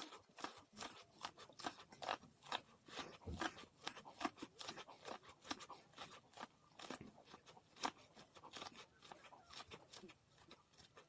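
Popcorn being chewed: a soft, irregular run of many short dry crunches.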